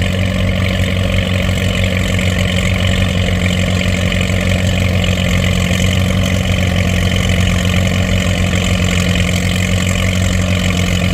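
Antique tractor engine running loud and steady at an even speed, with no revving up or down.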